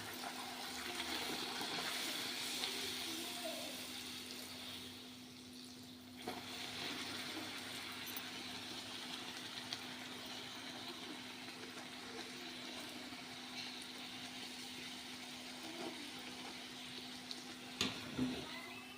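Puris deep-frying in hot oil: a steady sizzle that dies down briefly about five seconds in and picks up again, over a faint steady hum.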